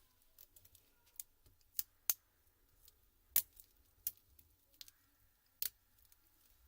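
Small sharp clicks and snaps, about seven at uneven intervals, from parts of a laptop keyboard being taken apart.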